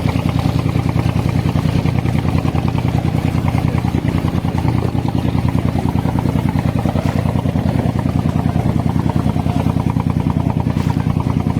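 Abra water taxi's inboard diesel engine running steadily at cruising speed, a loud, even, rapid chugging with a low hum.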